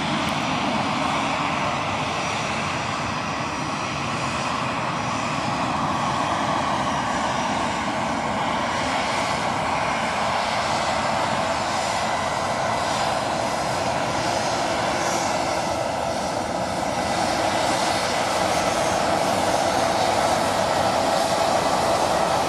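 Airbus A319 jet engines running steadily, a broad rumble with a faint high whine over it, growing a little louder near the end.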